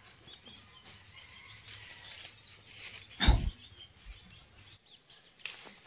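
Small birds chirping faintly and repeatedly in the background, with one loud thump a little over three seconds in.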